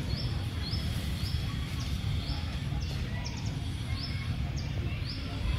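A small bird calling: short, high chirps that drop quickly in pitch, repeated about every half second over a steady low rumble.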